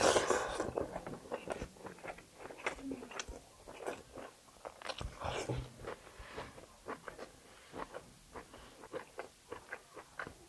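A person chewing and biting close to the microphone, with irregular wet smacks and crunchy clicks, working through tough kalij pheasant meat.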